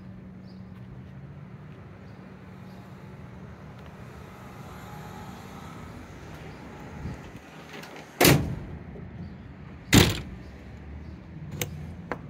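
Two loud slams about two seconds apart, a pickup truck's doors or hatches being shut, then two lighter clicks near the end, over a steady low hum.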